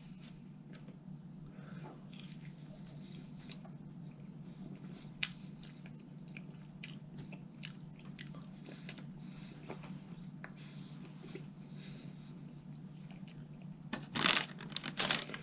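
A man chewing crispy chicken nuggets close to the microphone, with many small crunching clicks over a faint steady low hum. Near the end a paper food bag crinkles as a hand reaches into it.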